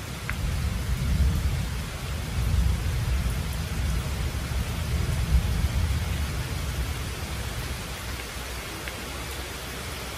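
Steady rain hissing down at night, with a low rumble of thunder that swells soon after the start and dies away after about seven seconds.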